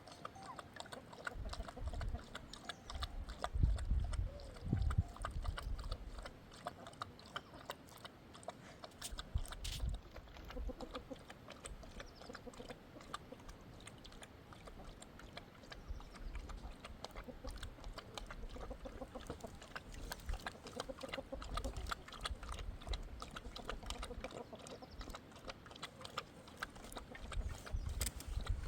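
Farm animals calling now and then, with scattered sharp clicks and knocks and bouts of low rumble.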